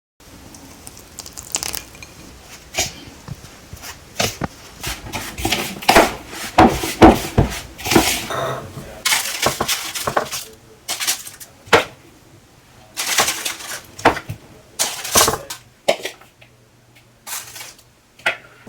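Irregular clatter of sharp knocks and clinks, hard objects being handled and set down, loudest in the middle stretch.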